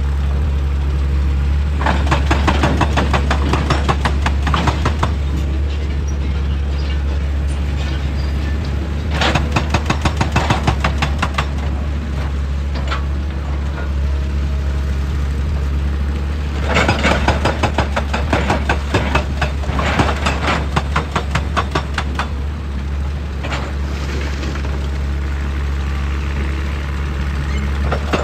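Excavator's diesel engine running steadily, with several bursts of rapid, evenly repeated impacts, lasting a few seconds each, typical of an excavator-mounted hydraulic breaker hammering rock.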